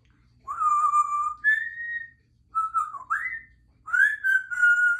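African grey parrot whistling three short phrases: a held note that steps up to a higher one, a note that dips and then sweeps up, and a rising note that levels off and holds.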